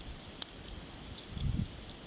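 Outdoor ambience of wind gusting on the microphone and rustling, with a few sharp clicks.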